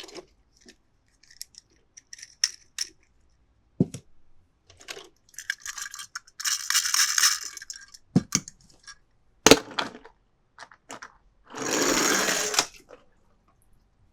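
Toy cars and their packaging being handled: scattered clicks and knocks, and two stretches of rustling, one about six seconds in and a louder one near twelve seconds.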